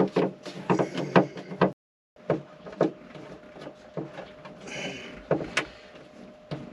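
Irregular clicks and knocks of hand tools and hardware being handled, over a faint steady hum, with a brief scraping rasp a little after the middle. The sound drops out for a moment about two seconds in.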